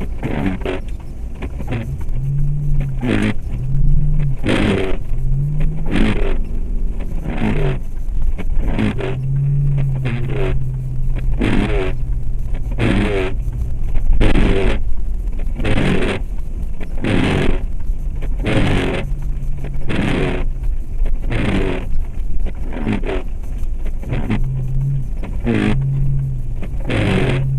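Inside the cabin of a 2004 Jeep Grand Cherokee with its 4.7 L V8 driving on snow: the engine runs with a low hum that rises and then holds several times as it pulls away, under a steady road noise. A short scraping sweep repeats about every second and a half.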